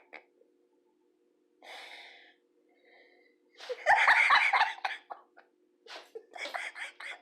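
A person's breathy gasps and bursts of laughter, with a loud burst about four seconds in and a run of short chopped laughs near the end.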